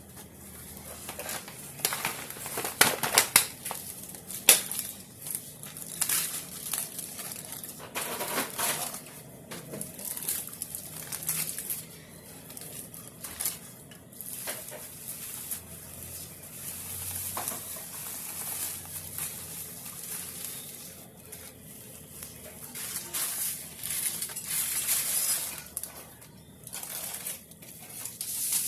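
Kitchen handling noises: irregular rustling and crinkling with scattered light knocks and clicks, loudest in a cluster a few seconds in.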